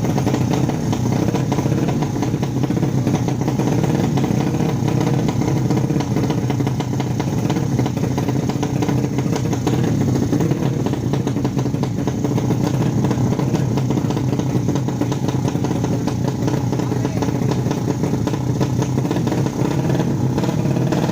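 Motorcycle engine noise, steady and continuous, with no clear revs or passes standing out.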